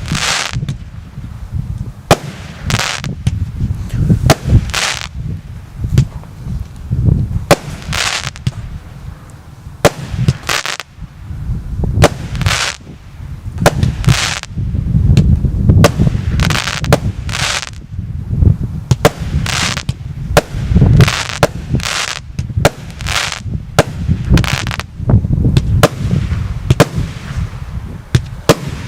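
A firework salute battery going off: a long series of loud bangs, about one or two a second, each trailing off briefly, over a steady low rumble.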